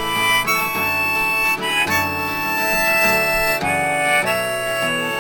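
Instrumental music: a harmonica plays a melody of held notes that change about once a second, over a guitar accompaniment.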